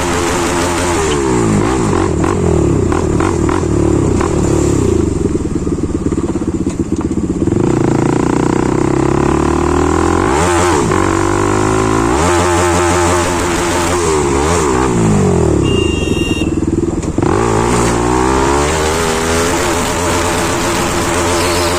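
Bajaj Pulsar NS200's single-cylinder engine through a modified aftermarket exhaust, revving again and again, its pitch rising and falling.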